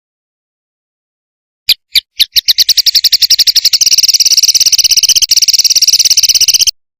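A songbird's rapid trill, a 'tembakan' phrase of the kind played to train contest songbirds: a few separate high notes about two seconds in, speeding up into a fast, even run of repeated notes, roughly a dozen a second, that stops abruptly near the end.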